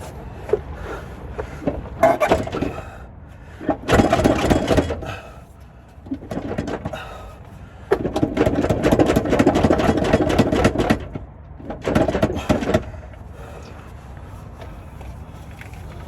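Cordless impact wrench hammering on bolts in four bursts, the longest about three seconds, with clinks of tools and parts in between.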